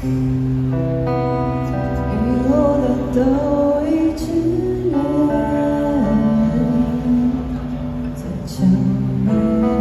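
A song sung by one voice over sustained instrumental chords; the voice comes in about two seconds in and carries a gliding melody.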